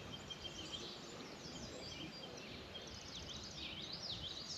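Songbirds chirping and calling, growing busier after about three seconds, over a faint low background rumble.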